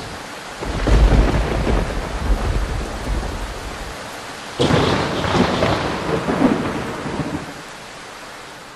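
Thunderstorm: steady rain with a low rumble of thunder starting about half a second in and a sharper thunderclap about halfway through, fading near the end.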